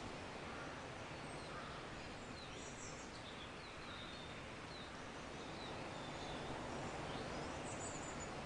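Nature ambience: a steady soft rush of noise with faint bird chirps, a few about three seconds in and again near the end.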